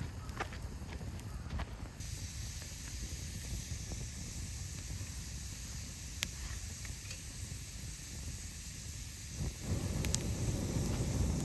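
Wood campfire burning with a steady hiss and a few sharp, scattered crackles. About nine and a half seconds in, a louder low rushing sound comes in and carries on.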